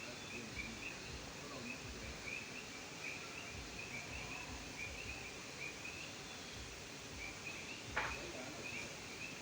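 A chorus of frogs calling: many short, high chirps overlapping in a continuous rhythm, with a single sharp click near the end.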